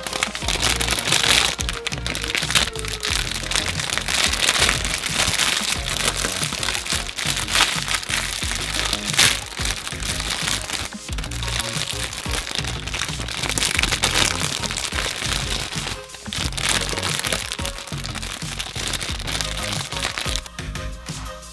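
Background music over near-continuous crackling and crinkling, like a plastic snack wrapper being handled.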